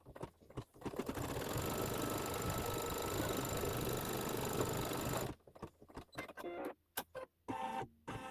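Embroidery machine stitching steadily, tacking down the fabric for a hat appliqué. It starts about a second in and stops abruptly at about five seconds. A few scattered clicks follow.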